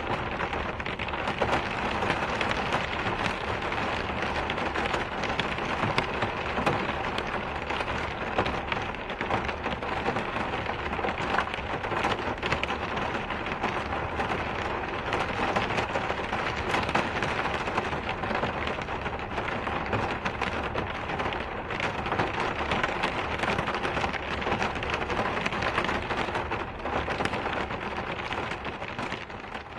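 Steady rainfall: a dense, even hiss of rain with individual drops ticking through it.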